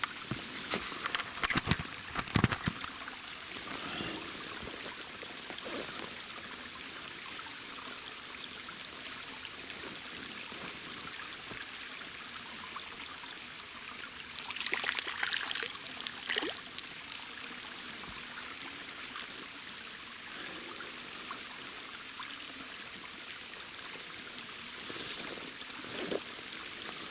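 Steady rush of flowing water. Knocks and clicks come in the first few seconds, and a louder stretch of splashing comes about fifteen seconds in.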